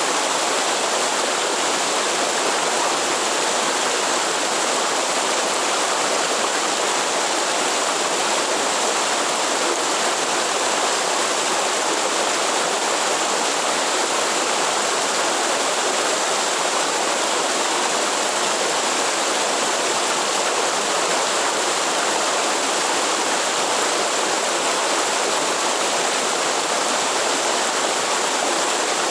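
Waterfall: water pouring and splashing steadily, an even rush that does not change.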